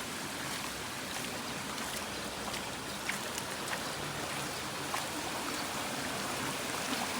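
Floodwater running steadily, like a stream, with a few faint ticks scattered through it.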